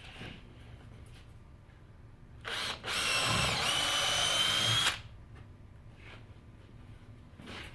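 Power drill running for about two seconds with a steady whine that dips briefly in pitch, after a short blip just before.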